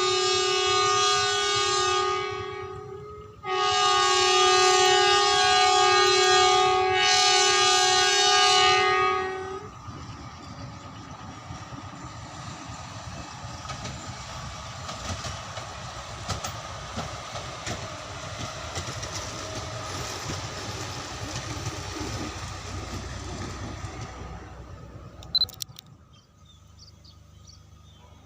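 Indonesian passenger-train locomotive horn sounding two long blasts, the first ending about two seconds in and the second lasting about six seconds. This is a railway horn signal, the semboyan 35 warning. Then comes the steady rumble and wheel clatter of the train passing, which fades away a few seconds before the end.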